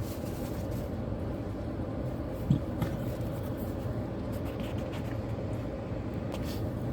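Steady low background hum, like the inside of an idling car, with one soft knock about two and a half seconds in.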